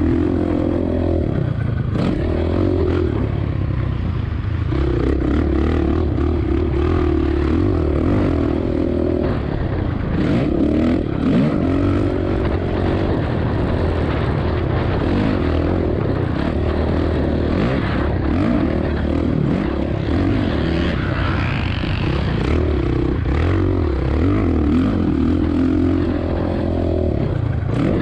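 2007 Suzuki RM-Z450 motocross bike's single-cylinder four-stroke engine being ridden hard, its pitch rising and falling again and again as the rider revs, shifts and rolls off the throttle.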